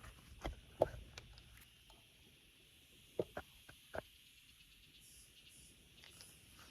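A few sharp cracks and knocks, three in the first second and four more about three seconds in, over a faint steady high hiss.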